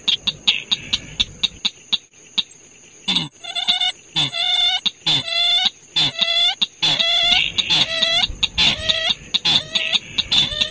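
Recorded bird calls from a night trapping lure track. Rapid clicking and faint high chirps come first. From about three seconds in, a run of loud, harsh pitched calls follows, each about half a second long and repeated roughly once a second, over a steady high whine.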